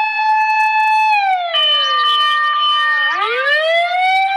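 Toy fire truck siren: a steady wail that slides down in pitch from about a second in, then sweeps back up near the end, with a second steady tone overlapping it partway through.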